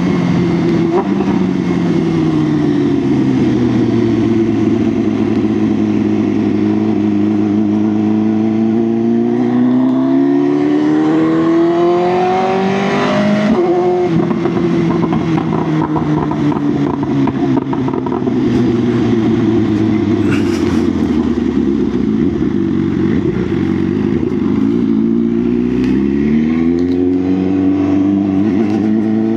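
BMW S1000R's inline-four engine under way: its pitch settles, then climbs steadily for several seconds as the bike accelerates and drops off sharply about halfway through, then holds, dips and climbs again near the end. A steady rush of noise runs underneath.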